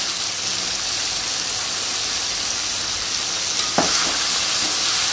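Lemon pickle sizzling steadily in a kadai as a perforated steel spatula stirs it, with one sharp knock of the spatula against the pan a little before four seconds in.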